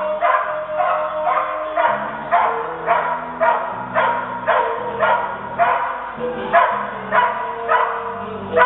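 Dog barking over and over at an even pace, roughly one bark every half second, with music playing underneath.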